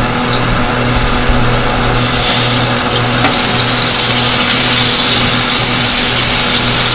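Hot grease sizzling as floured chicken drumsticks fry in a pot, the hiss growing louder about two seconds in as another piece goes in. Under it runs the steady hum of a stove hood fan.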